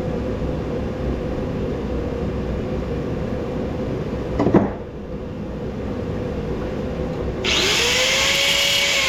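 Steady low hum of a space heater, broken by a sharp knock about four and a half seconds in. Then, about seven and a half seconds in, a handheld power tool starts up: its motor spins up and it cuts with a loud hissing noise.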